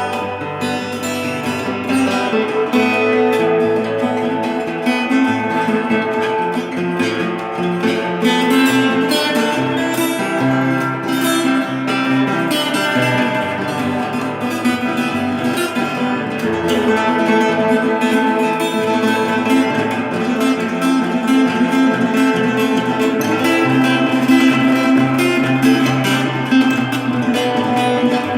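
Acoustic guitar music, plucked and strummed steadily throughout.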